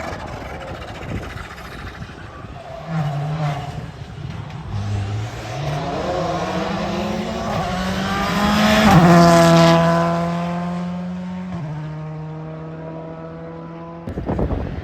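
Rally car engine approaching under acceleration, its pitch climbing, then passing close about nine seconds in with a sudden drop in pitch and pulling away, fading. A different sound cuts in abruptly near the end.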